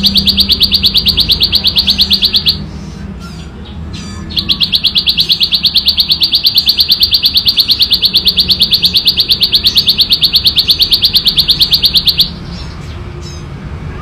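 Ciblek sawah, a small prinia, singing its rapid machine-gun trill of high, evenly spaced notes, about eight a second. It sings one burst, pauses about two seconds, then gives a long unbroken trill of about eight seconds that cuts off near the end.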